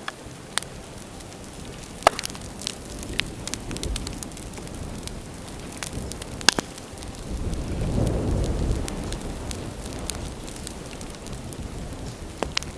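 Bonfire of dry bamboo crackling, with sharp irregular pops, the loudest about two seconds in and about six and a half seconds in. A low rumble swells in the middle and eases off.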